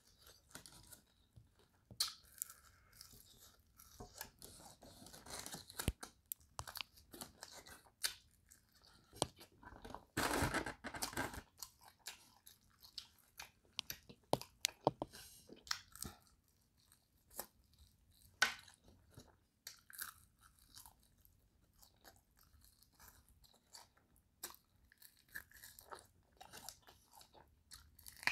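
Biting into and chewing crispy dry-rub fried chicken wings: irregular crunches and chewing, with a louder stretch of crunching about ten seconds in.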